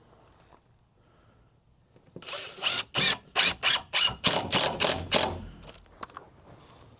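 Handheld power drill run in a quick series of short bursts, about ten over three seconds, starting about two seconds in.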